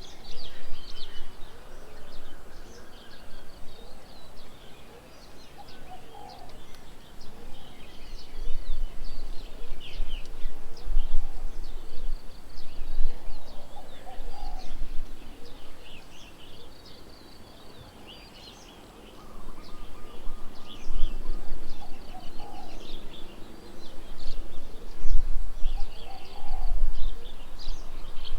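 Several birds chirping and calling, with many short high notes throughout and a few lower calls. A low rumble comes and goes under them and is the loudest sound, strongest in the second half.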